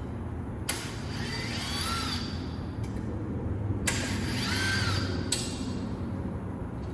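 A power tool run twice, for about two seconds and then about a second and a half, its motor whine rising and falling each time with a hiss, as parts are taken off a headlight assembly.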